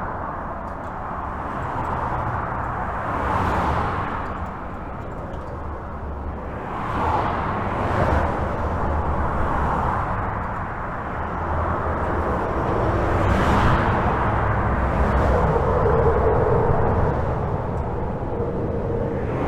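Highway traffic heard from under a bridge: a steady wash of tyre and engine noise over a low rumble, swelling several times as vehicles pass close by. A brief humming tone joins in during the last few seconds.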